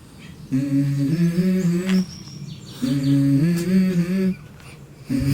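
A person humming a short stepped tune, the same phrase twice with a short pause between, starting again near the end.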